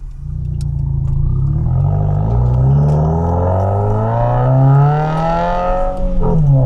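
Subaru WRX turbocharged flat-four engine through a Nameless axleback muffler-delete exhaust. The engine note climbs steadily in pitch for about five seconds, breaks briefly near the end, then settles into a steady drone.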